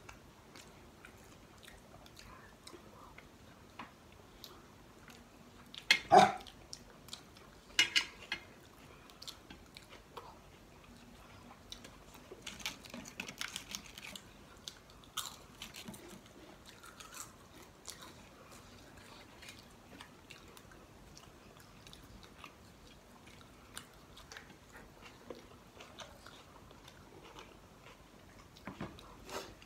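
Close-up eating sounds: chewing and biting, with a run of crackly crunching as a roasted papad (thin lentil wafer) is broken and bitten around the middle. Two sharp, louder knocks stand out about six and eight seconds in.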